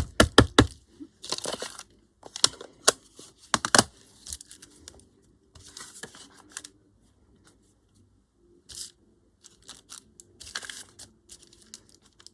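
Paper being handled and stamped with ink at a craft table: a quick cluster of sharp taps near the start, then short bursts of papery rustling that thin out towards the end.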